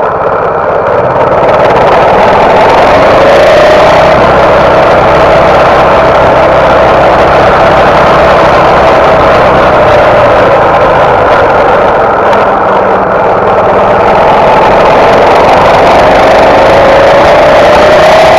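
Small single-cylinder four-stroke engine of an MB200 mini bike running loudly, its pitch slowly sagging and rising again.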